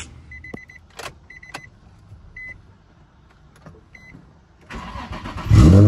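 Car's warning chime beeping in short bursts, with a few clicks. Near the end the starter cranks and the engine catches with a rising rev, then settles into a loud, steady idle on a cold start.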